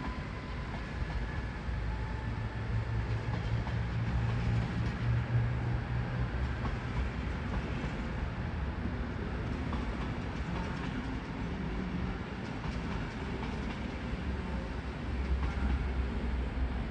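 A train moving on the tracks, with a steady rumble of wheels on rail and a low hum. The hum swells a couple of seconds in and again near the end.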